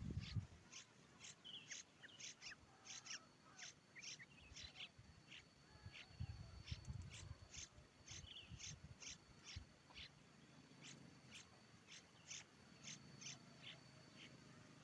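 Faint, short high-pitched bird chirps repeated about twice a second, with a thin steady high whine under them from a few seconds in.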